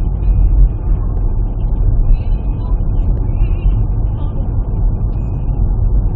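Steady low rumble of a car driving, heard from inside the cabin, with faint sounds above it.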